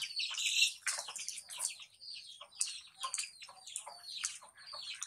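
Birds chirping: many short, high calls from several birds overlapping densely.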